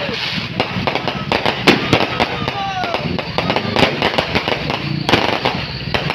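Fireworks and firecrackers going off in a rapid, irregular barrage of bangs and crackles, many each second.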